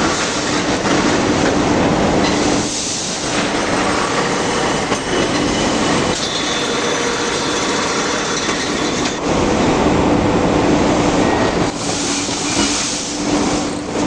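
Steel rolling mill running at the finishing end of a rebar production line: a loud, steady clatter and rumble of rollers and hot rod stock, with a faint steady hum and two brief lulls.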